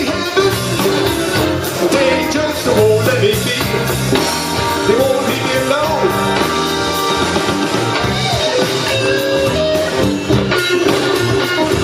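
Blues band playing live: electric guitar with sliding, bent notes over bass and drums.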